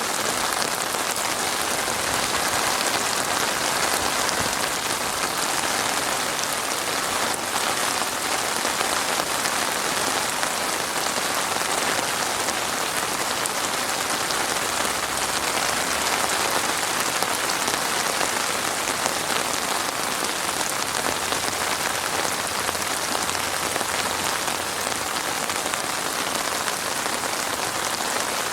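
Heavy rain falling steadily, a dense even hiss of drops striking a surface.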